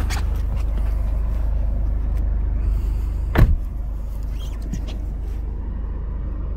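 Toyota GR Corolla's three-cylinder turbo engine idling steadily, heard from the driver's seat. A single loud thud about three and a half seconds in, as the driver's door shuts.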